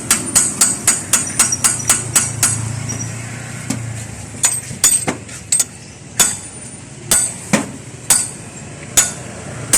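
Hammer striking metal: a quick run of about four blows a second, then after a short pause slower, spaced blows, each with a bright ring.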